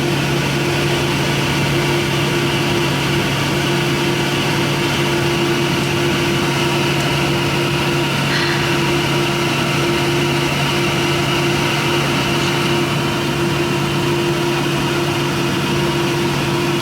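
Airliner engine and airflow noise heard inside the passenger cabin during takeoff: a steady roar with a constant low hum.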